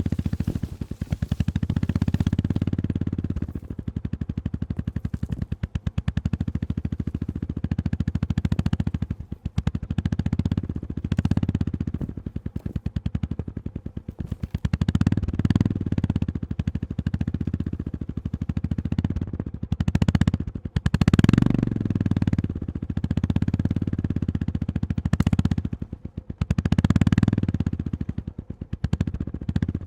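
Honda GB350S single-cylinder engine running under riding load, the throttle swelling and easing every second or two, with clatter and knocks from riding over a rough gravel forest road.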